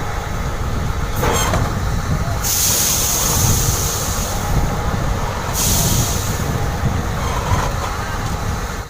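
Heavy-vehicle sound effect: a steady low engine noise throughout, with a loud hiss from about two and a half to five and a half seconds in.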